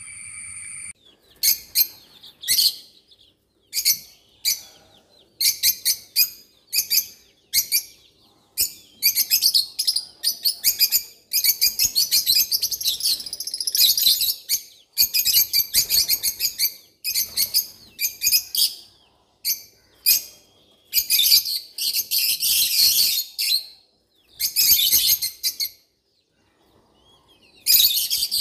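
Birds chirping in quick, high-pitched bursts, a dense run of calls that stops for a moment near the end.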